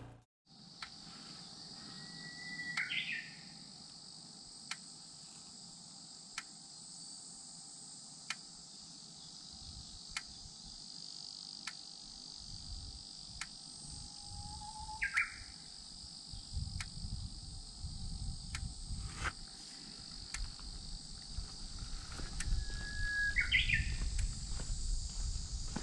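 Wild birds singing: three clear calls, each a held whistle breaking into a quick rising flourish. Under them runs a steady high insect drone, and a low rumble grows near the end.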